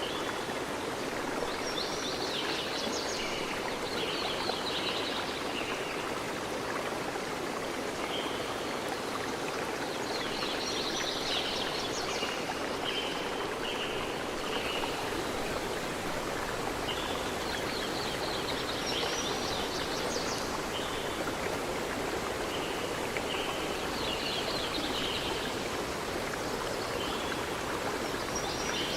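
Steady rush of a flowing stream, with a songbird singing short chirping phrases over it, repeating every several seconds.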